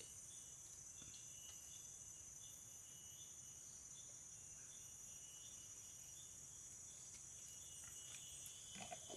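Faint, steady, high-pitched insect chorus trilling, with a short chirp repeating about twice a second.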